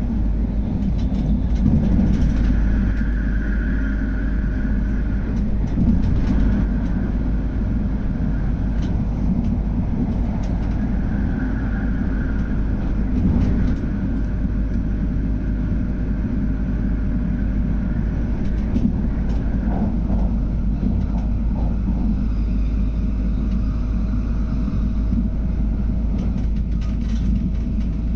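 MTR Airport Express electric train running, heard from inside the carriage: a steady low rumble of wheels on rail with a hiss that swells and fades. Near the end a thin steady whine comes in.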